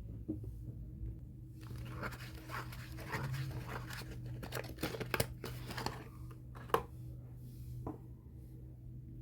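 Soap packaging being torn open and crinkled by hand, in a busy run of rustling, with a couple of sharp clicks near the end. A low steady hum sits underneath.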